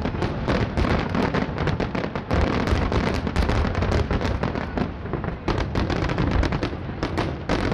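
Aerial fireworks shells bursting in a dense, rapid barrage: an unbroken stream of booms and crackles, several a second.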